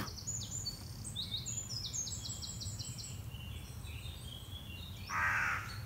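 A small songbird sings a run of high, quickly repeated notes, about five or six a second, for the first few seconds. About five seconds in, a crow gives a harsh caw. A low, steady background rumble runs underneath.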